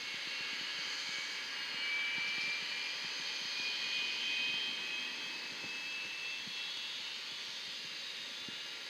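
Jet aircraft engines running: a steady rush of noise with several high whining tones that drift slightly in pitch.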